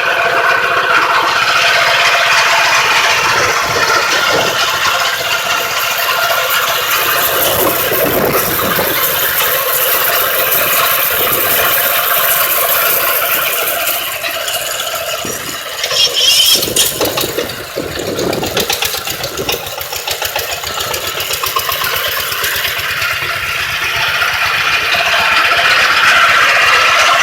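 MOROZ pumpkin-harvesting combine running on its petrol engine, the machine rattling steadily as it works; about halfway through the level dips and a few louder clattering knocks come through before it settles back to a steady run.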